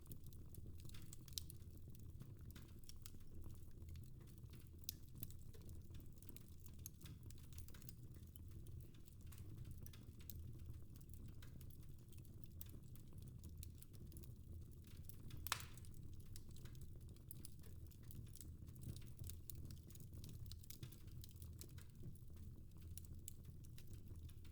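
A fire in a fireplace crackling quietly, with scattered irregular pops and one louder pop about fifteen seconds in, over a low steady rumble.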